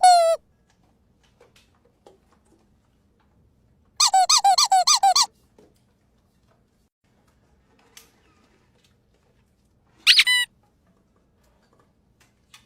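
Squeaky dog toy being squeezed in high-pitched squeaks: one squeak at the start, a quick run of about nine squeaks around the middle, and another single squeak near the end.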